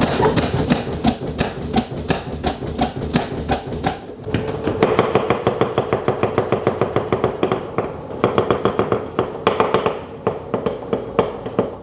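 Old LG front-loading drum washing machine knocking and rattling hard in a rapid, even rhythm as its drum spins, with a steady hum joining about four and a half seconds in. The shaking comes from worn dampers that no longer absorb the drum's shocks.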